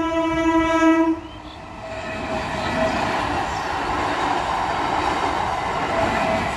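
Electric suburban local train sounding its horn, a held tone that cuts off about a second in. Then the steady noise of the coaches passing over the level crossing builds up and carries on.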